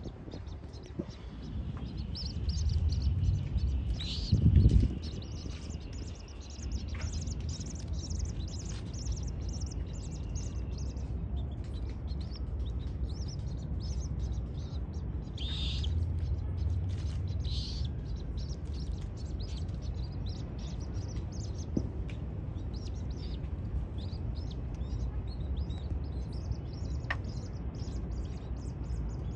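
Birds chirping: many short, high chirps and ticks, thickest in the first ten seconds, over a steady low rumble.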